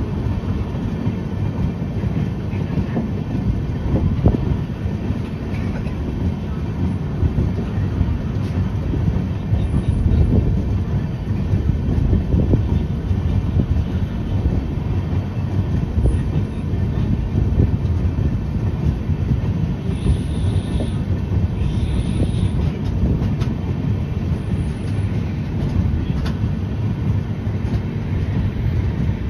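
Passenger express train running along the track, heard from the open doorway of a moving coach: a steady, loud wheel-and-rail rumble with scattered clicks. Short high-pitched squeals come twice, about two-thirds of the way through.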